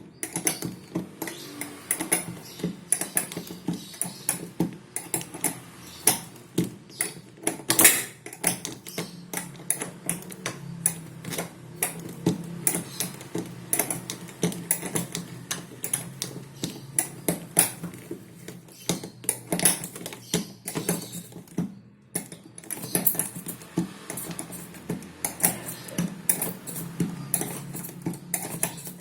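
Irregular metallic clicks, clinks and knocks of hand tools and parts being handled, typical of a wrench being worked on the washing machine's bolts, over a faint steady low hum.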